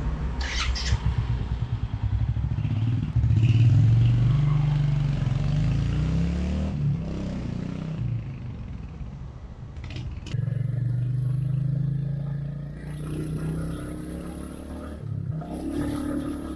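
Royal Enfield Hunter 350's single-cylinder engine running as the bike is ridden on the street. It gets louder as the bike pulls away about three seconds in, eases off, grows louder again about ten seconds in, then eases off toward the end.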